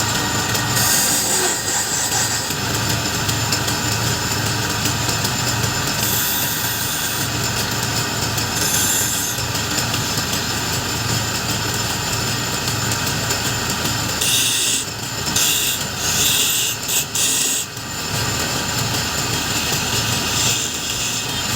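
Wood lathe running steadily while a turning tool cuts the spinning wood, the cut coming and going in bursts of scraping hiss.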